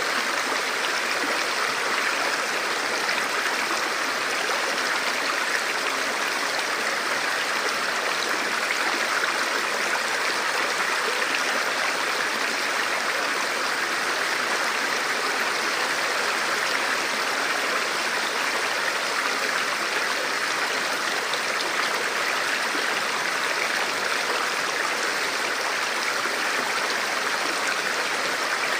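Forest river or stream flowing steadily over rocks, an even rushing and babbling of water.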